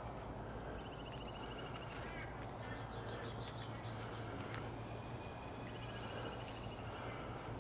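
A small songbird singing three rapid, high trills, each a second or so long, over a steady low hum.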